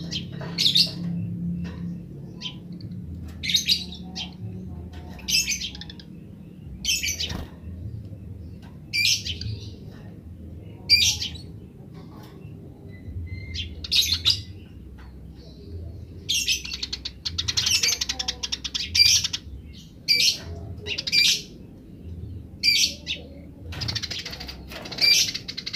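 Eurasian tree sparrows chirping in grece style: short, sharp chirps every second or two, breaking into fast chattering runs about two-thirds of the way through and again near the end.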